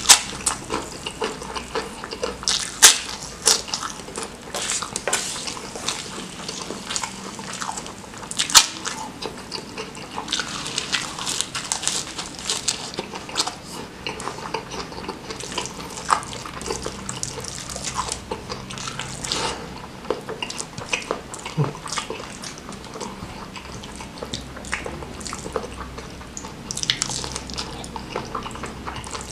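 Close-miked wet chewing and lip-smacking of a person eating spicy stir-fried squid and rice by hand: a run of irregular moist clicks and smacks, the sharpest about 3 and 8.5 seconds in.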